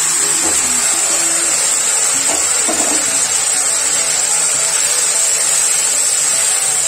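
Pressure-cooked mutton with its stock sizzling in hot mustard oil and browned onions in a kadhai as it is poured in from the cooker, a loud, steady hiss.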